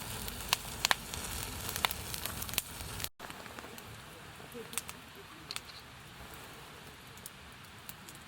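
Sizzling and crackling over a fire, with frequent sharp pops for about three seconds. Then an abrupt cut to a quieter hiss with only a few scattered pops.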